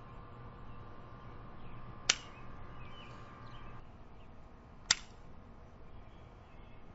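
Two sharp cracks about three seconds apart, each with a brief ring after it.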